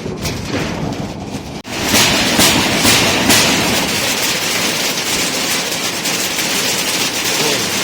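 Heavy rain pouring down as a dense, steady hiss, louder and thicker from about two seconds in.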